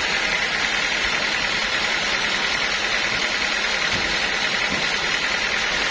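Sawmill machinery running steadily: a continuous mechanical noise with a fast, even flutter.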